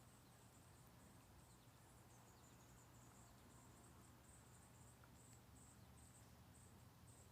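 Near silence, with faint insect chirping: short high-pitched chirps repeating about twice a second over a low steady hum.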